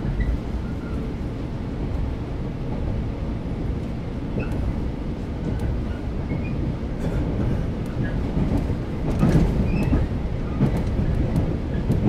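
Running noise inside the motor car of a JR West 115-series electric train just after it leaves a station: a steady low rumble from the traction motors and wheels. A cluster of knocks and clicks comes about two-thirds of the way in, as the wheels cross points and rail joints, and a few more near the end.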